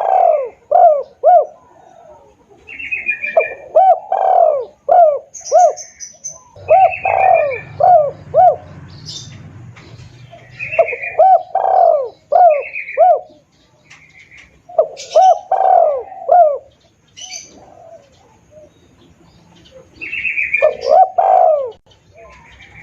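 Spotted doves cooing: about six phrases of repeated, arching coos, with short high chirps of other small birds in between.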